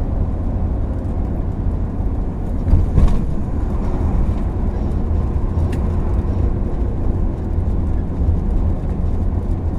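Steady low rumble of road and engine noise inside a moving vehicle, with a brief louder bump about three seconds in.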